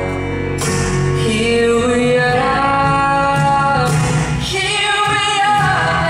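Live acoustic-pop band music with long held, wordless sung notes in female voices and cymbal crashes about half a second and four seconds in.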